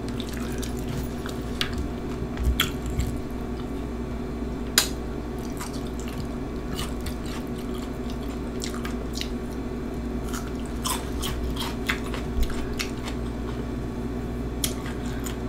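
Close-miked mouth sounds of a person chewing Flamin Hot Cheetos nachos: scattered sharp clicks and smacks, a few louder than the rest, over a steady low hum.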